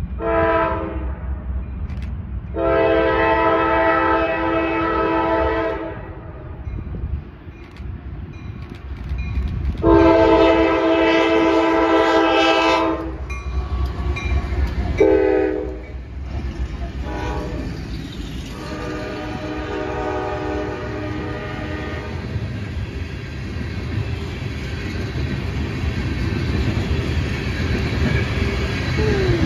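The lead CSX diesel locomotive's air horn sounds a series of long and short blasts as the freight train approaches. The last long blast is lower and fainter as the locomotive goes by. Then the diesel engines rumble and the wheels clatter on the rails as a long string of tank cars rolls past.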